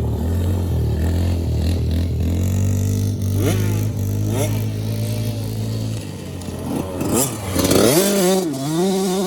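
Small off-road engines running and revving, with quick rises in pitch about three and a half and four and a half seconds in. A louder rev climbs near the end and then settles into a steady pitch.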